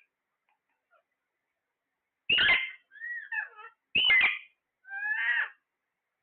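Parrot calling: a short harsh squawk about two seconds in, then a warbling call, a second squawk and another warbling call near the end.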